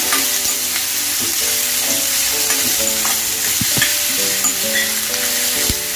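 Chopped onion and green chillies sizzling in hot oil in a stainless steel kadhai, stirred with a steel spoon that clicks against the pan a few times.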